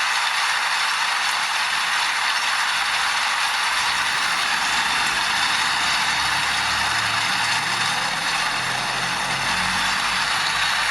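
Steady rain falling, an even hiss with no breaks. About halfway through, low sustained musical notes come in underneath it.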